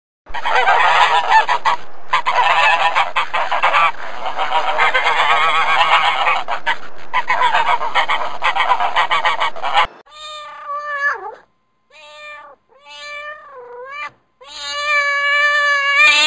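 A dense chorus of honking from a flock of swans and geese for about ten seconds, then a kitten meowing several times, some meows sliding down in pitch at the end.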